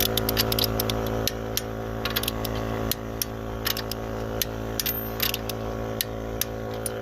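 A motor running with a steady hum, with a run of irregular sharp clicks and taps over it, most of them in the first second and a half and around the middle.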